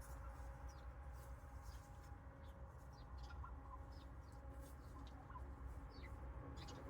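Faint, scattered soft chirps and clucks of a flock of wild turkeys, over a low steady rumble.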